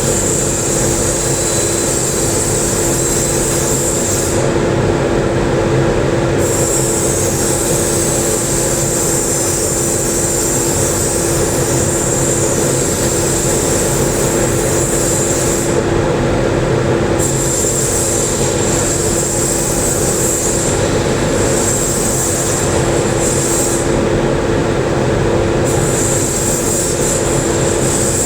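TIG welding: a steady, loud buzzing hum with a high hiss over it that drops out briefly three times.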